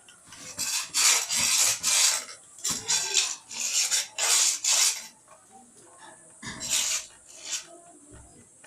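Repeated scraping strokes, about two a second for some five seconds, then a pause and one more stroke near the end.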